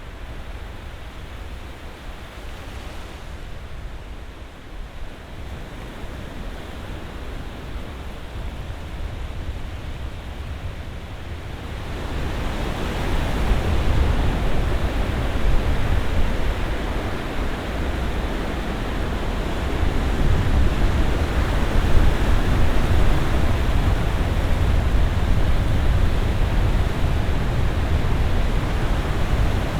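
Ocean surf washing ashore, a steady rushing hiss over a deep low rumble; about twelve seconds in the surf swells much louder as bigger waves break, and it keeps rising and falling slowly.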